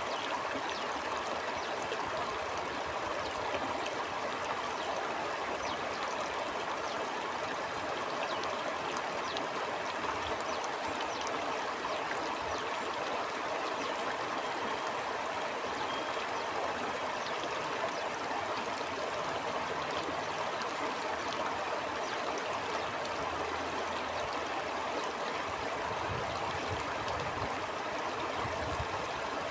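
A stream flowing and burbling steadily over stones, with small splashes throughout. Near the end a low rumble of wind comes in.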